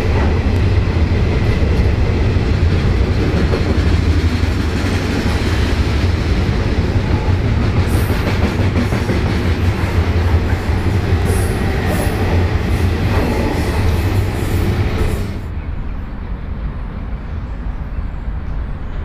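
Loaded container wagons of a long freight train rolling past at speed: a steady heavy rumble of wheels on rail, with a few sharp clacks from the wheels near the middle. About three-quarters of the way through it drops suddenly to a quieter, duller rumble as the end of the train moves away.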